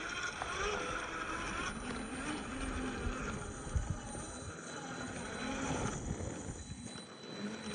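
Scale RC crawler driving on a trail: its small electric motor and gears hum with a wavering pitch, over a rough noise of tyres on the ground. There is one sharp knock about four seconds in.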